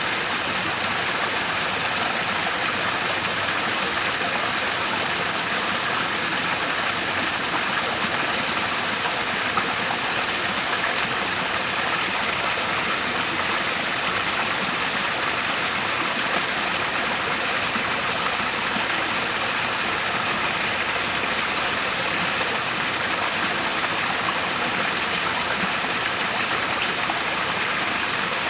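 Waterfall: water pouring and splashing in a steady, unbroken rush, mostly hiss with little deep rumble.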